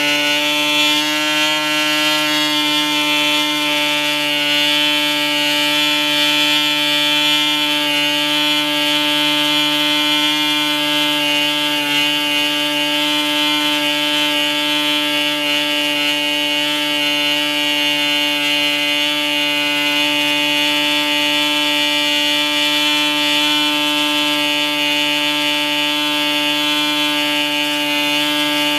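PAW 40 TBR ball-bearing model diesel engine, a two-stroke compression-ignition engine, running steadily at constant speed with a loud, even buzz.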